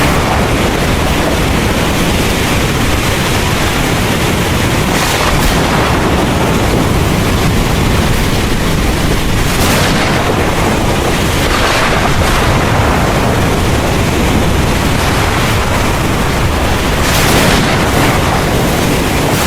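Heavy rain pouring in a dense, steady hiss, with a continuous low rumble of thunder underneath and a few brief surges in the hiss.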